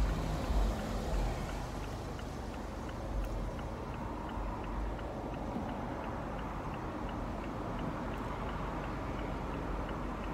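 Steady road and wind noise from an open-top Ferrari, with a low rumble that eases after the first second or so. A faint, regular high ticking runs about three times a second.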